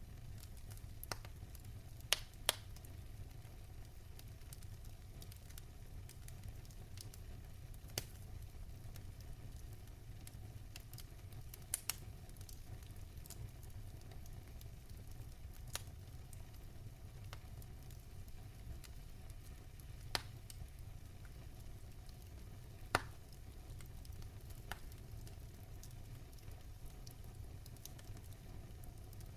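Wood fire burning in a fireplace: a steady low rumble and soft hiss, with about ten sharp crackling pops at irregular intervals.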